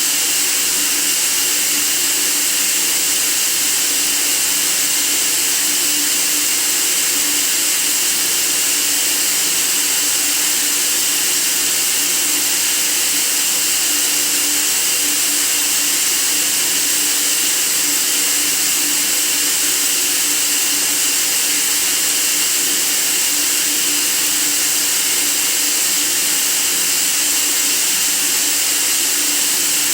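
Steady white noise: an even, unchanging hiss, brightest in the treble, with faint steady hums beneath it.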